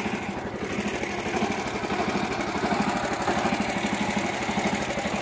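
Mini tractor's engine running steadily with an even, fast chugging pulse.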